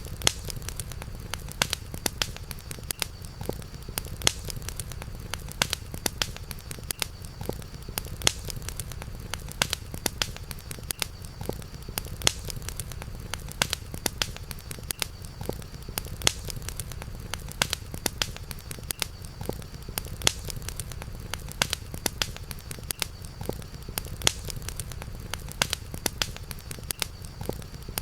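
Campfire crackling, with frequent irregular sharp pops and snaps over a steady low rumble, and a faint steady high-pitched drone.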